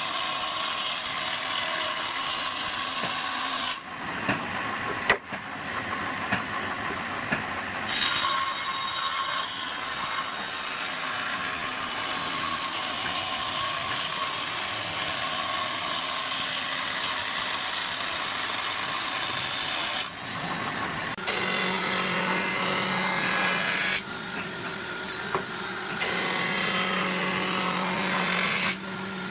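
Power tools working hardwood, heard in a run of short clips that change abruptly every few seconds, with a few sharp knocks. In the later clips a steady motor tone runs under the noise.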